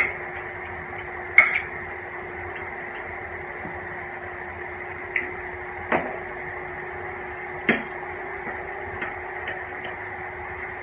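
Eating at a table: a few sharp clicks and taps of utensils against a plate, spread several seconds apart, over a steady room hum.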